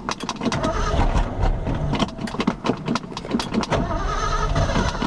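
A carbureted truck engine cranking on its starter in a quick, even rhythm without firing. It is a cold no-start: the engine turns over but does not catch.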